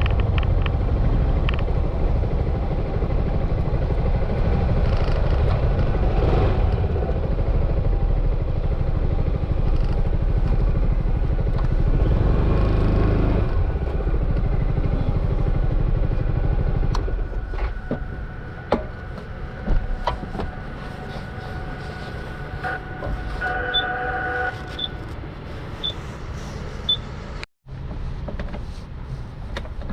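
Yamaha XMAX 300 scooter riding, with steady wind and engine rumble on the camera microphone. It drops to a quieter running sound a little over halfway through, with scattered clicks, and a short beeping tone comes about four-fifths of the way in.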